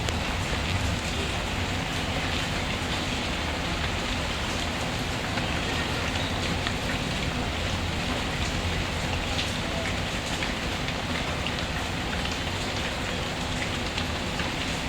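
Steady rain falling, with scattered small sharp crackles from a wood fire.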